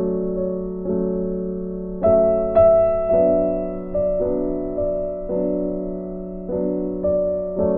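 Soft background piano music: gentle, slow piano chords, a new chord struck about once a second and left to fade.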